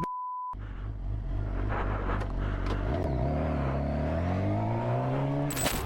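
A short censor bleep, then a motorcycle engine running and accelerating, its pitch rising steadily over the last few seconds.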